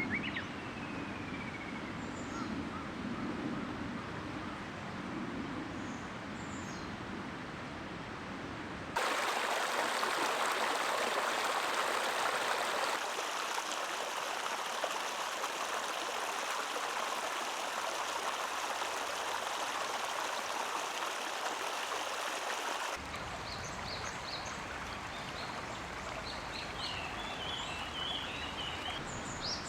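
Stream water flowing steadily, in several takes joined by abrupt cuts that change its loudness and tone, loudest in the middle. A bird calls briefly near the start, and birds chirp in the last several seconds.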